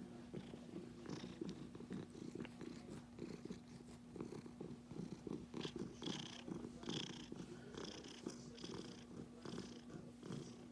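Domestic cat purring steadily in a rapid, continuous low rumble.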